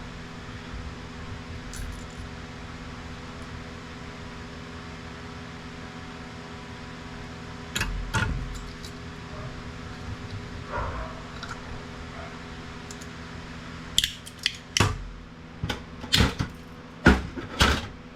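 Metal printer parts being handled: a couple of knocks about halfway through, then a quick run of sharp clanks and clinks near the end. A steady low hum runs underneath.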